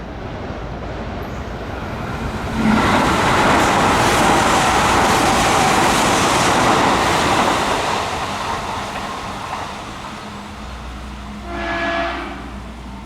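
Kintetsu electric train passing at speed: wheel and track noise swells suddenly, stays loud for about five seconds, then fades away. Near the end a short horn blast sounds once.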